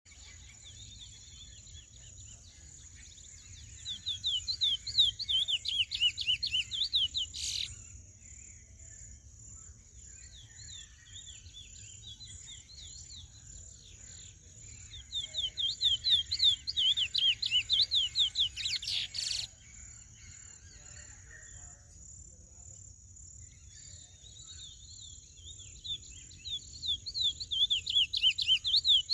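A young male chestnut-bellied seed finch (curió), in its first moult to black, singing three loud phrases of rapid, repeated down-slurred whistled notes, with softer twittering between phrases.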